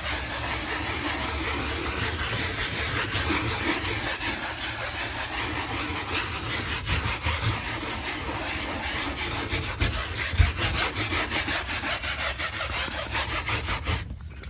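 Small hand brush scrubbing gritty Bar Keepers Friend powder into a boat's floor in quick, steady back-and-forth strokes, stopping shortly before the end.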